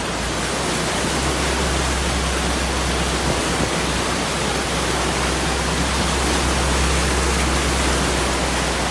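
Steady rush of fast-flowing floodwater, an even noise with a heavy low rumble.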